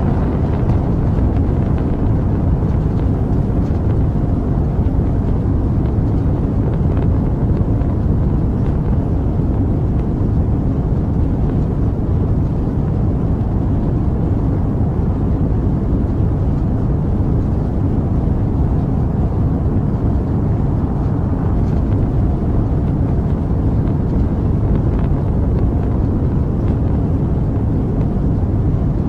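Rocket engine noise: a steady, deep rumble with most of its weight in the bass and no rises, drops or breaks.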